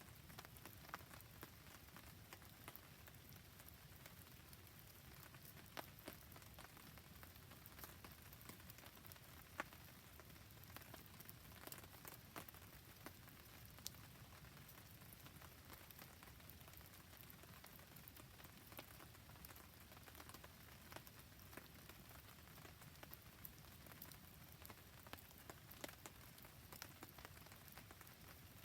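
Faint steady rain with scattered sharp ticks of drops and crackles from a wood campfire.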